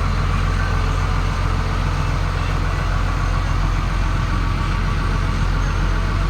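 A 5.9-litre Cummins diesel in a 2002 Sterling M8500 truck idling steadily, heard from inside the cab with the air-conditioning fan blowing.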